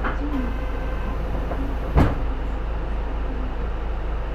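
Interior running noise of a PKG-LV234L2 city bus: a steady low diesel-engine rumble. There is one sharp knock about two seconds in.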